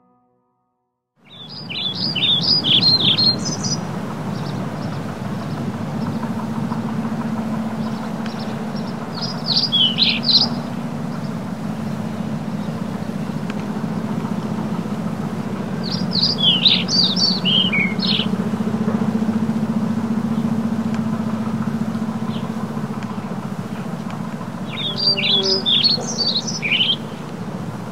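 A songbird sings four short, high, twittering phrases about seven seconds apart, over a steady low background rush that begins about a second in.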